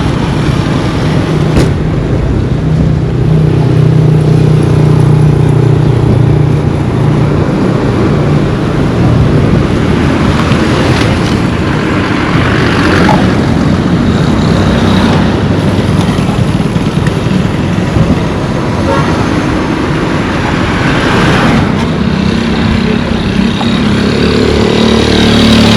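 Road traffic passing close by: vehicle engines running and tyres rolling on the road. A low engine hum is strongest in the first several seconds and again near the end, with vehicles swelling past in between.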